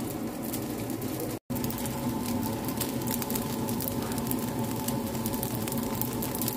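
Fried rice sizzling in a hot frying pan, a steady crackle over a low hum. The sound cuts out for a moment about a second and a half in.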